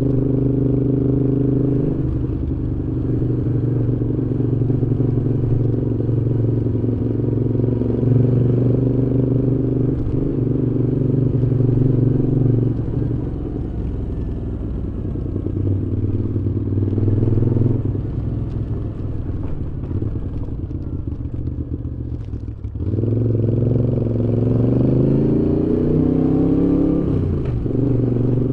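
Moto Guzzi V7's air-cooled V-twin running through a Mistral aftermarket exhaust while riding, its pitch stepping down at several gear changes. Near the end the engine note drops briefly, then rises steadily under acceleration before the next shift.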